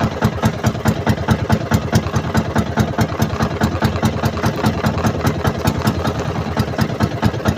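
Small boat engine running steadily, with a fast, even putter of about five or six beats a second.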